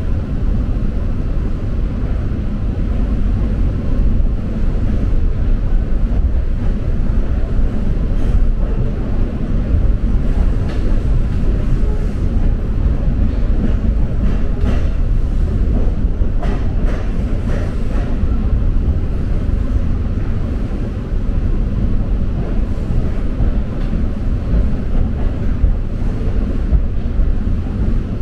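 Steady low rumble of a moving train heard from inside the carriage, with a few light clicks around the middle.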